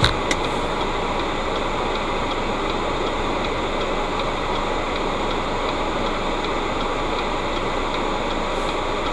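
Steady rushing road noise of a car driving, heard from inside through a dash camera, with a couple of short clicks at the very start.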